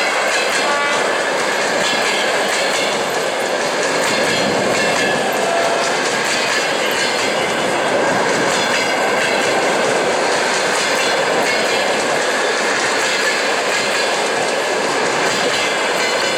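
Passenger train rolling past close by, its wheels clattering steadily over the rail joints.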